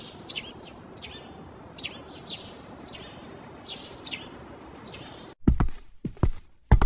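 Birds chirping over a faint outdoor ambience, a series of short falling chirps. About five seconds in they give way to footsteps, a few steps a second.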